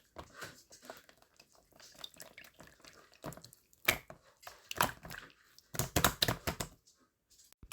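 A series of irregular sharp clicks and taps, like small objects being handled, thickest and loudest from about six to six and a half seconds in.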